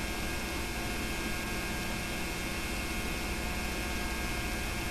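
Steady electrical mains hum with tape hiss from the home narration recording, with no other sound. The film itself was shot silent.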